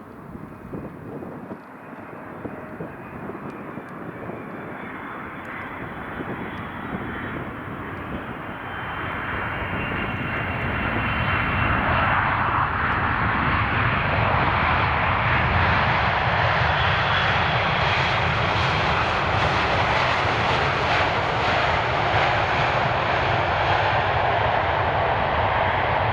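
Jet aircraft engines, growing steadily louder over about ten seconds as the plane comes closer, then holding at a loud, steady level.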